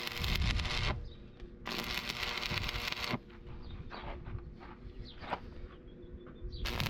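Compressed air hissing in bursts that start and stop sharply, three times: about a second long at the start, about a second and a half long a little later, and again briefly near the end. A steady machine hum runs underneath, and small clicks and taps sound between the bursts.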